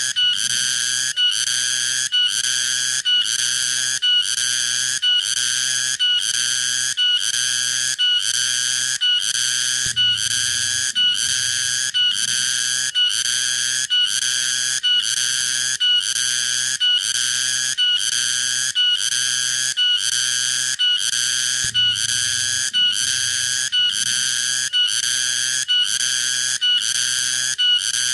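Cicada (tonggeret) calling: a shrill, high-pitched buzz pulsing in an even rhythm of about two pulses a second, with short gaps between.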